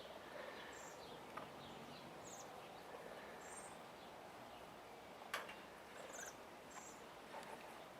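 Quiet outdoor background with small birds giving brief, high chirps now and then, and a single sharp click about five seconds in.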